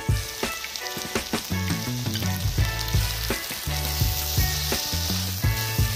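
Mushrooms, onion and capsicum frying in oil in a kadai, with a steady sizzle. A silicone spatula stirs the masala through them, making repeated short scrapes and knocks against the pan.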